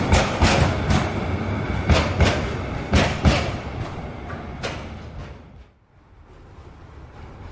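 A passing train's wheels clatter over the rail joints in paired knocks over a running rumble. The clatter fades away a little past halfway, and a low steady rumble comes back near the end.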